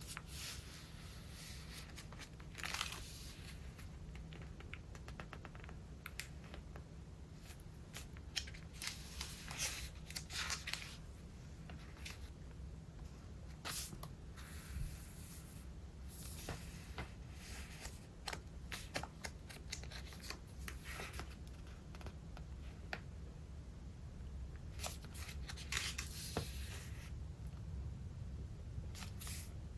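Pages of a thick, collage-filled Traveler's Notebook being turned one after another: paper rustling and crinkling in short bursts, with small clicks and taps in between.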